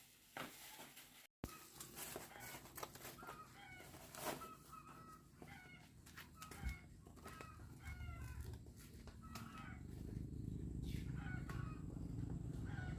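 Chickens clucking in short, repeated calls, with a low engine rumble building from about eight seconds in.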